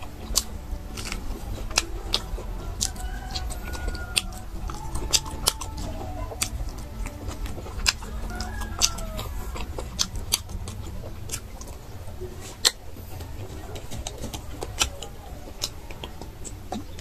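Close-up eating sounds of meat being chewed off bones: irregular sharp mouth clicks and smacks. Chickens cluck in the background.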